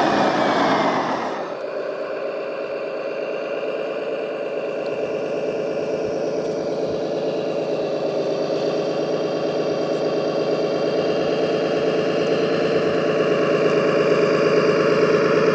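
Engine sound of a radio-controlled model heavy vehicle running steadily; it drops back a little over a second in, then slowly grows louder again.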